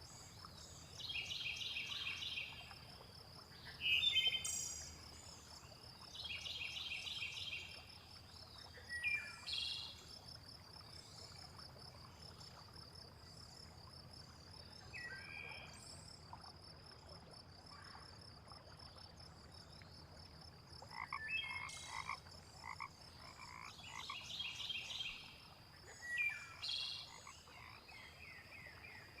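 Frogs croaking in bursts of rapid, evenly pulsed calls, several times near the start and again near the end. A steady high insect trill runs underneath, with a few short bird chirps scattered through; the middle stretch holds only the trill and chirps.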